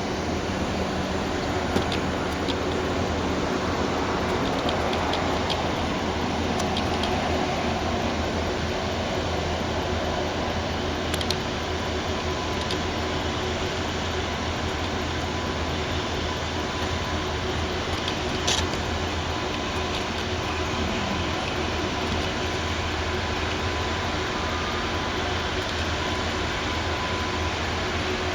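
Steady rumble and hum of freight train traffic in a rail yard, with a few faint clicks.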